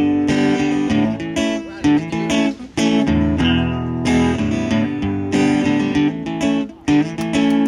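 Acoustic guitar strumming chords in the song's instrumental intro, changing chord about every second with a few short breaks between strums.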